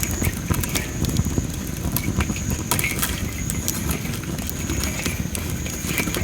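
Dry masaki (Japanese spindle) firewood burning in a campfire, crackling with many sharp, irregular pops over a low, steady rumble of flame. A faint steady high-pitched tone runs underneath.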